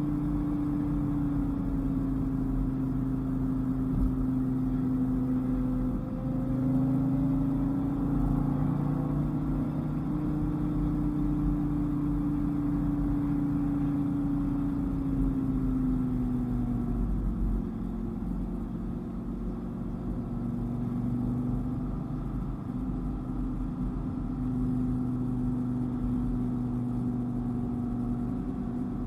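Dodge Viper's V10 engine running steadily at a cruise over road noise, its note wavering slightly up and down and dropping lower a little past halfway.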